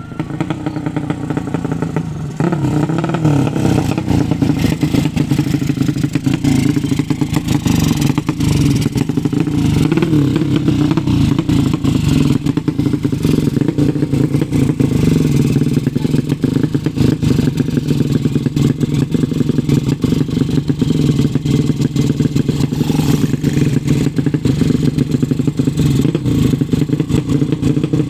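Tuned 200 cc drag-racing motorcycle engine running loud, its pitch shifting in the first couple of seconds before it gets louder about two seconds in and holds a steady run.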